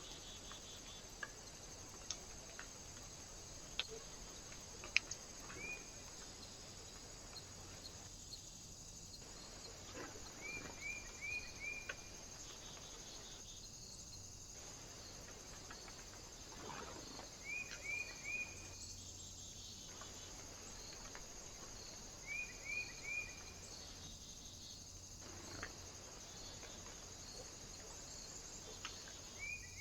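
A small bird calling in short quick chirps, grouped in threes or fours and repeated every five seconds or so, with a few scattered sharp clicks over a steady faint hiss.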